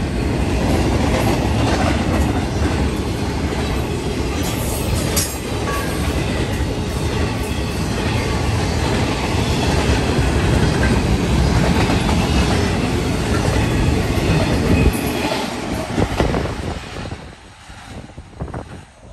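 Double-stack intermodal freight train rolling past at close range: a steady rumble and clatter of steel wheels on rail, with a brief high wheel squeal about five seconds in. The noise falls away sharply near the end.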